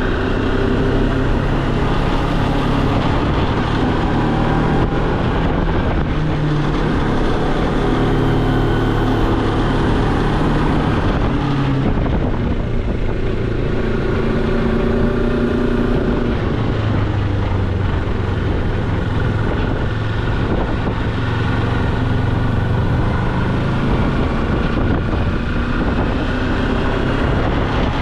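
Moto Morini X-Cape motorcycle's parallel-twin engine running under way, its note rising and dropping several times, with wind noise on the microphone.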